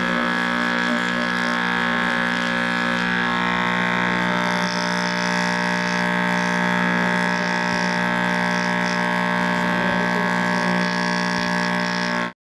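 Old Juki sewing machine running at a steady speed with an even whirring hum, on a test run after its loose crankshaft pin was tightened to stop the needle bar moving up and down. The sound cuts off abruptly at the end.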